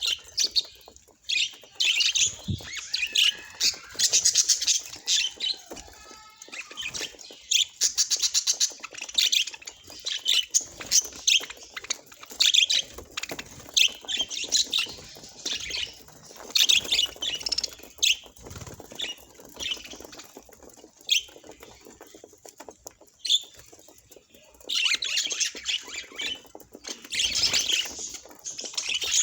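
Budgerigar chirping: a busy run of short, high-pitched calls and squawks, one after another.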